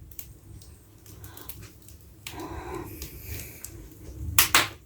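Firewood crackling in a freshly lit fireplace: scattered sharp pops, with two louder ones close together near the end and a short soft breathy noise about halfway through.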